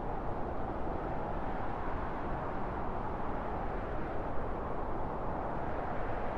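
Strong wind blowing steadily, a deep, even rush with no gusts or breaks.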